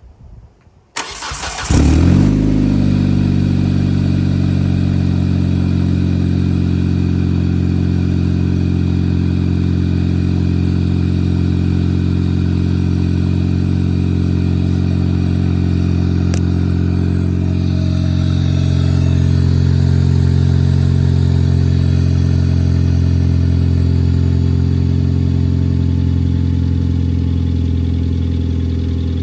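A 2004 Hyundai Elantra's four-cylinder engine cold-starts: the starter cranks briefly about a second in, the engine catches and runs on at a steady idle. It makes a valve-train noise that the owner takes for lifters, bearings and rocker arms running before the oil has circulated.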